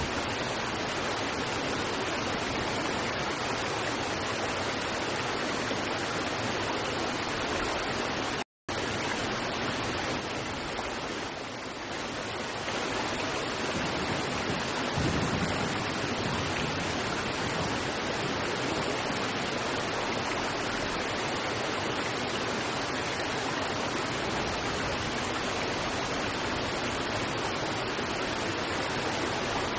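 River water rushing steadily over rocks, an even, continuous roar. It cuts out to silence for a split second about a third of the way in.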